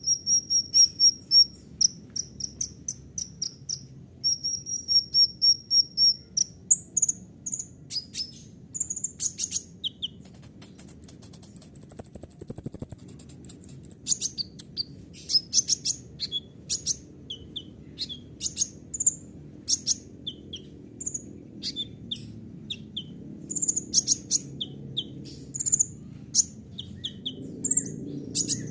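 A kolibri ninja (sunbird) singing a varied song: a run of evenly repeated high chips, then mixed chirps and whistles, a loud rapid trill about twelve seconds in, and more scattered sharp chips.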